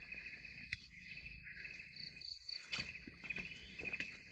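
Insects chirring steadily in a high, even drone, with a few faint clicks.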